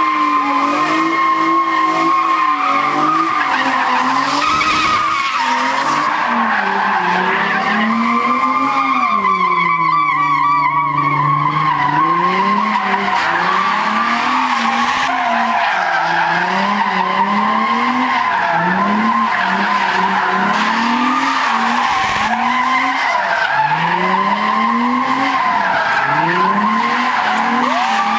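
A car drifting, its tyres squealing steadily while the engine revs rise and fall every second or two.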